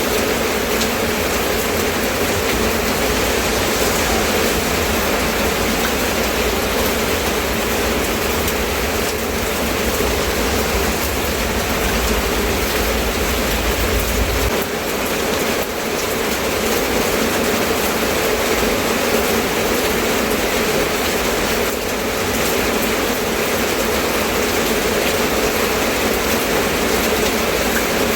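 Steady rain falling, an even hiss with no separate drops standing out. A low rumble under the rain cuts off about halfway through.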